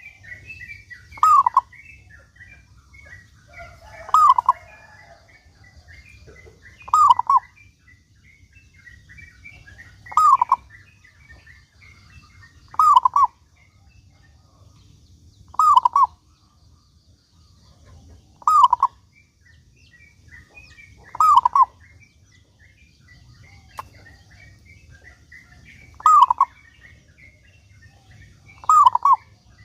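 Zebra dove (perkutut) cooing, repeating its short song phrase about every three seconds, ten times. Faint chirps from small birds sound between the phrases.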